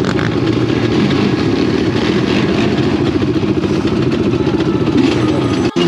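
ATV engines running steadily in a rough, dense rumble, with a brief break near the end.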